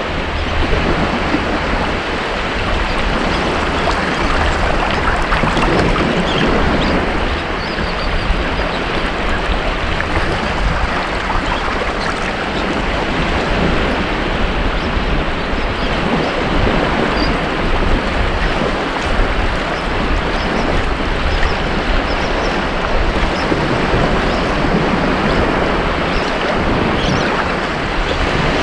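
Ocean surf on a beach: waves breaking and washing in a continuous, steady rush of water noise.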